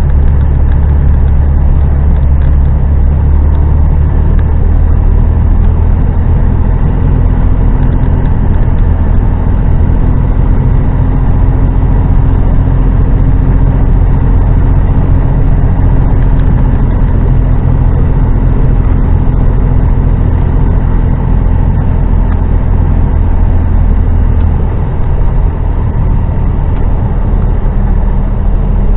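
Heavy goods lorry's diesel engine running under way, a steady low drone heard from the cab, its note shifting a few times as engine speed changes.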